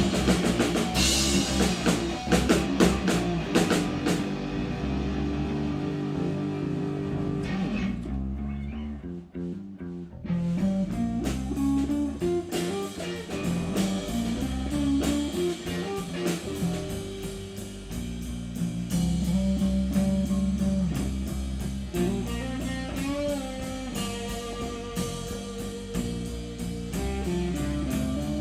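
Rock band playing an instrumental break: a guitar melody over bass and drum kit. The drums thin out after about four seconds, drop out for a couple of seconds about eight seconds in, then come back in full.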